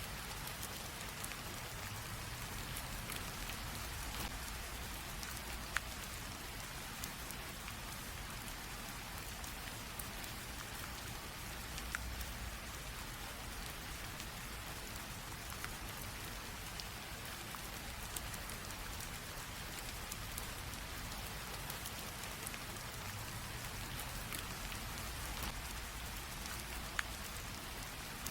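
Light drizzling rain: a steady even hiss of falling rain with many small drop ticks, and a few sharper single drips standing out now and then.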